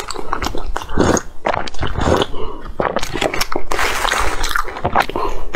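Close-miked chewing of a soft cream-filled bread bun: a quick, irregular run of wet smacks, clicks and squishes from the mouth.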